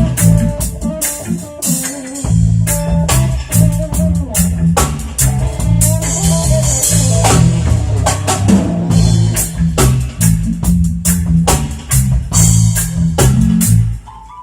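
Live band playing a song on drum kit, bass guitar and guitar, with a steady beat and a prominent bass line.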